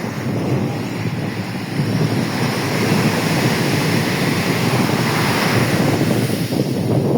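Rough, storm-driven sea surf breaking on the beach, a continuous rushing noise that swells about two seconds in, with wind buffeting the microphone.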